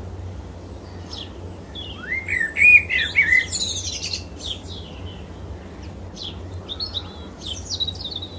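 Birds chirping and singing in many short, quick calls, with a loud cluster of rapid chirps about two to three seconds in, over a steady low hum.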